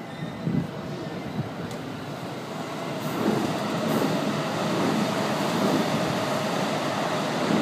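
Electric train running past underneath, its rumble growing louder about three seconds in and then holding steady. Two short knocks sound in the first second and a half.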